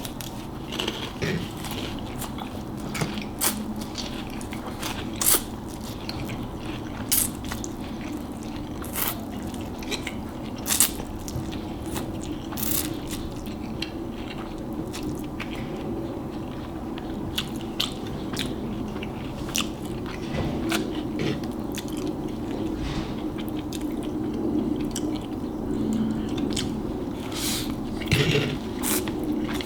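Close-miked chewing of noodles mixed with crunchy Flamin' Hot Cheetos: irregular sharp crunches and mouth clicks, a few every second or two.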